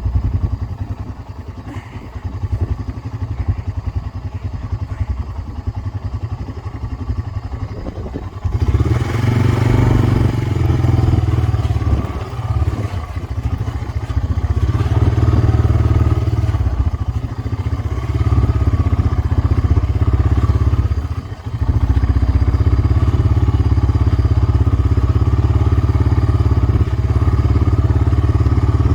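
Four-wheeler (ATV) engine running while riding, moderate for the first eight seconds, then much louder from about eight and a half seconds in, with a short drop near the twenty-first second.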